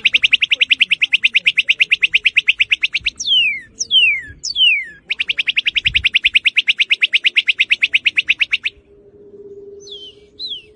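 Northern cardinal singing: sharp down-slurred whistles alternating with two long, very fast trills of repeated notes, each trill lasting about three seconds. Near the end the song stops and a few fainter slurred notes and a faint low steady hum remain.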